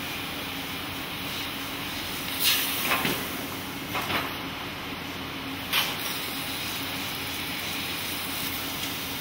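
TRUMPF TruMatic 7000 punch-laser combination machine running: a steady mechanical noise with a constant hum underneath. Four short hissing bursts come about 2.5, 3, 4 and 6 seconds in.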